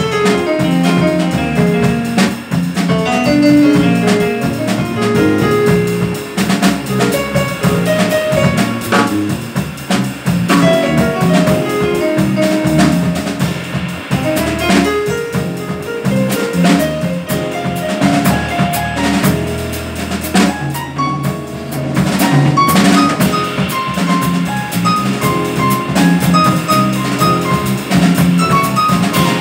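A jazz quartet playing live, with the drum kit prominent, including rimshots and bass drum, under busy runs of pitched notes from the band.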